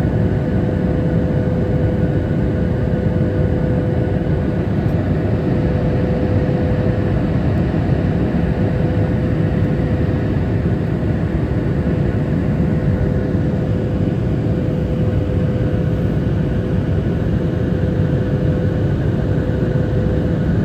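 Boeing 737 MAX 8 jet engines and airflow heard in the passenger cabin in flight: a steady rushing noise with a constant mid-pitched hum.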